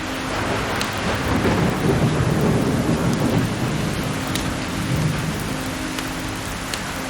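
Steady rain with a low rolling thunder rumble that swells about a second in and fades away over the next few seconds.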